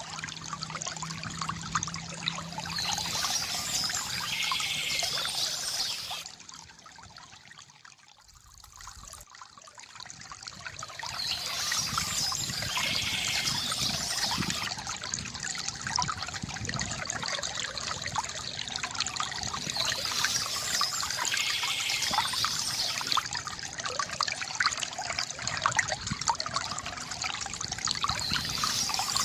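Water trickling and splashing from a bamboo fountain spout into its basin. The flow fades down for a few seconds about a quarter of the way in, then comes back up.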